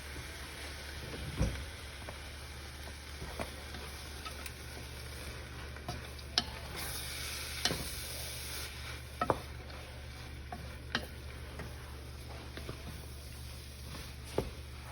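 Spoon stirring a thick shrimp-and-breadcrumb stuffing mixture in a hot pan, with a low sizzle and scattered knocks of the spoon against the pan. A brighter hiss rises for a couple of seconds about seven seconds in.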